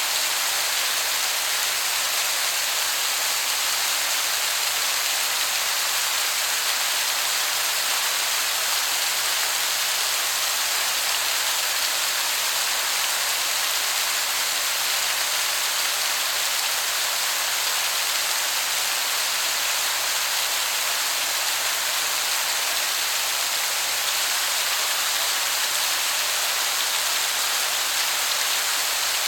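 Waterfall: a steady, even hiss of falling water that sounds like heavy rain, strongest in the high range and unchanging throughout.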